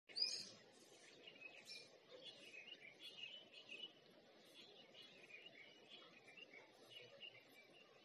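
Birds chirping faintly in many short calls, with one louder call right at the start, over low background noise.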